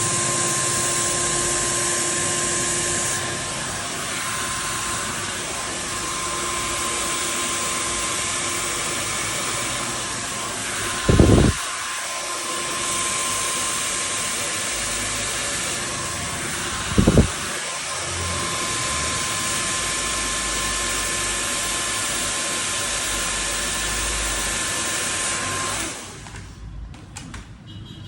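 Handheld hair dryer blowing with a steady airy rush and a thin motor whine. Two short loud thumps come partway through, and the dryer switches off near the end.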